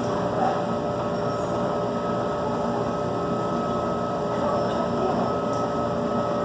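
A car's heater fan running with the engine on, heard inside the cabin as a steady hum over a constant rush.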